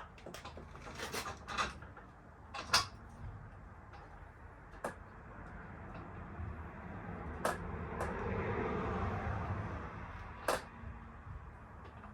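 Scattered light knocks and clicks of hard objects, a few sharper taps among them, over a soft noise that swells and fades in the middle.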